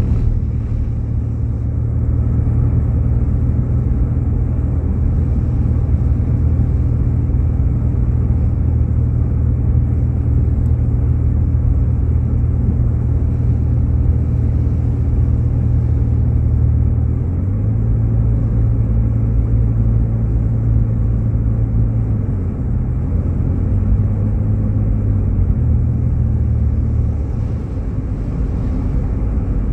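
Steady low rumble and drone of a Jeep Grand Cherokee driving on a snowy road, heard from inside the cabin. The low drone shifts slightly in pitch about seventeen seconds in.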